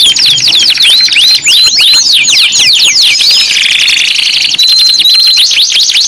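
Canary singing: fast runs of descending whistled notes, several a second, broken a little past halfway by a low buzzing roll and then a held high whistle, before the quick runs resume.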